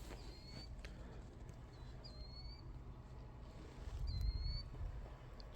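A few short, high chirps from a small bird, over the low crunch of footsteps through deep snow, which get heavier about four seconds in.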